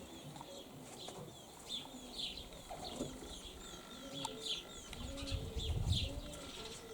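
Outdoor birdsong: small birds chirping in short high notes. From about four seconds in, a low bird call repeats roughly once a second. Near the end, wind gusts rumble on the microphone.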